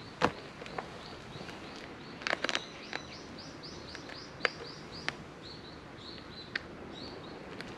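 A small bird calling a quick run of short, high chirps, several a second, starting about a second in and stopping near the end. A few sharp clicks and taps are heard over it, the loudest just after the start and a cluster about two and a half seconds in.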